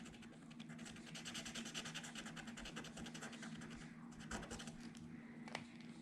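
Marker tip scribbling back and forth over a small wooden sticker: a faint, rapid scratching of many quick strokes, stopping about four seconds in, followed by a couple of light taps.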